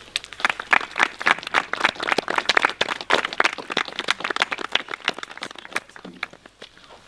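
A small group of people clapping: quick, irregular claps that die away about six seconds in.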